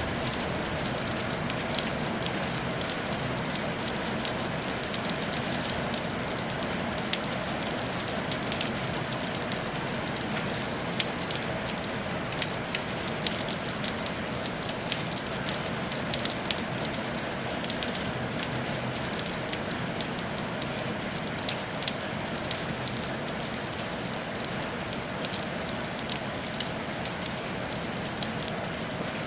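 Steady rain falling on a tile roof, an even hiss with many individual drops ticking through it.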